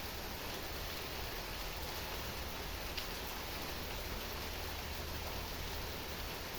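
Heavy rain falling steadily: an even, unbroken hiss, with a single sharper tick about three seconds in.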